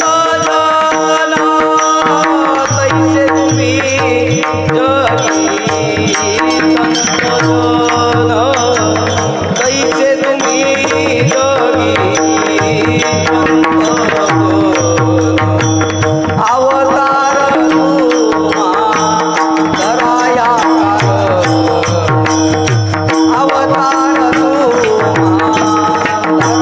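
Marathi devotional kirtan singing: a male voice sings a bending melody over a steady drone, with hand-drum and other percussion strokes keeping time.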